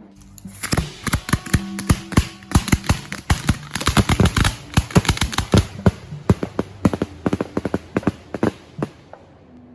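Firecrackers going off in a rapid, irregular string of sharp pops and cracks that thickens in the middle and thins out near the end.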